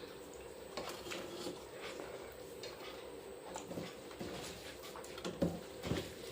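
Faint scattered clicks and soft taps of people eating rice by hand from plates, over a steady low hum.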